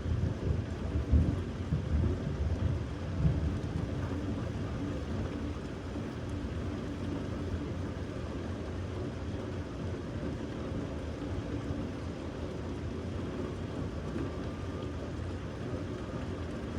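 Thunder rumbling over steady rain, loudest in the first few seconds and then dying away, leaving the even hiss of the rain.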